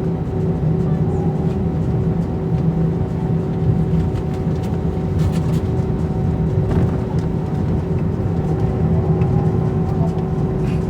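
Airbus A319 jet engines running steadily, heard inside the cabin as a loud hum with several steady tones over a low rumble.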